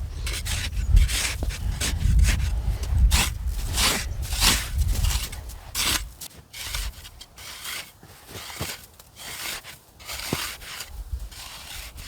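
Repeated rough scraping strokes, one or two a second, over a low rumble that dies away about halfway through.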